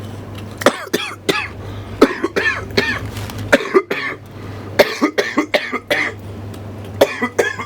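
A man coughing in short repeated bursts, in three or four fits of several coughs each.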